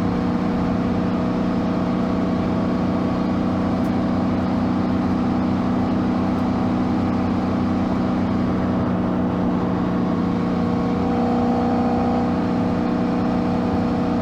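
A Lexus SC400 drift car's engine running at steady revs while cruising, a constant drone that holds the same pitch throughout.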